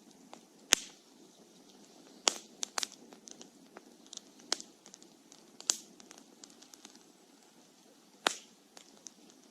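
Campfire of burning wood crackling: about six loud, sharp pops and many smaller crackles at irregular times over a faint low hiss.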